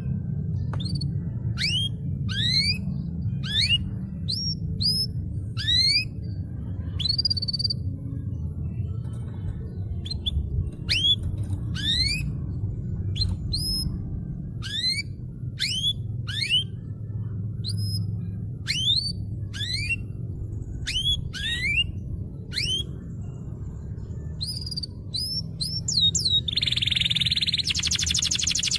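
Canary singing: a string of rising whistled notes repeated about twice a second, a short break, more of the same, then a fast, dense trill near the end, over a low steady hum.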